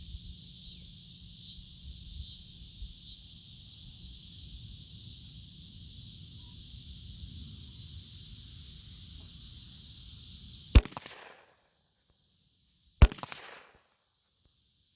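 Two shots from a Glock 19 Gen 5 9mm pistol, about two seconds apart near the end, each a sharp crack with a short echo. Before them there is a steady high hiss.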